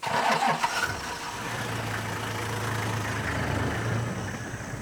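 Vehicle engine running steadily at idle, with a burst of clattering noise in the first second.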